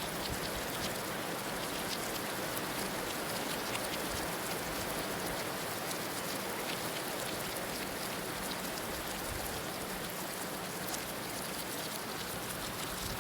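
Heavy rain falling steadily: a dense even hiss with many scattered drop impacts.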